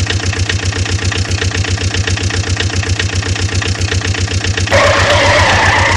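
Mini tractor engine running with a fast, even chug. For about the last second, a hissing noise joins it.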